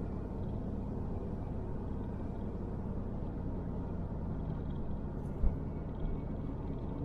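Car driving slowly, a steady low engine and road rumble heard from inside the cabin, with a single low thump about five and a half seconds in.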